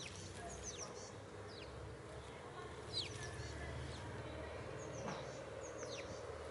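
Small birds chirping: short, high chirps that slide quickly downward, coming irregularly every second or so, over a steady low background hum.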